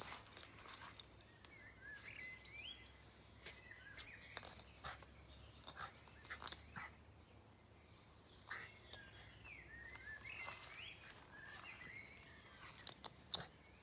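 Faint birdsong, short chirping phrases that glide up and down, with scattered sharp clicks and rustles, the loudest of them a quick cluster near the end.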